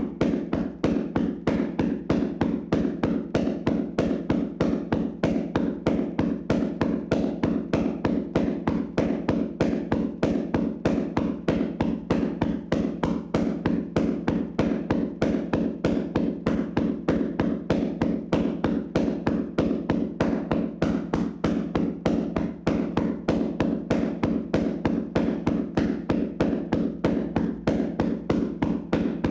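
Hands slapping a person's body in a vigorous tapping massage: a fast, even run of dull strikes, several a second, kept up without a break.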